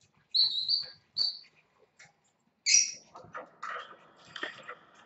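Pet bird calling: two short, shrill chirps in the first second and a half, a louder squawk about halfway through, then softer raspy chattering.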